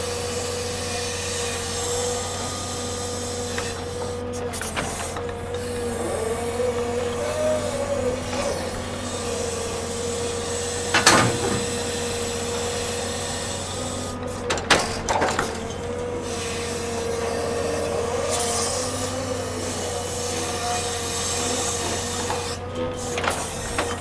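Heavy log-unloading machinery running steadily with a constant whine, and a few sharp knocks: one about eleven seconds in and a cluster around fifteen seconds.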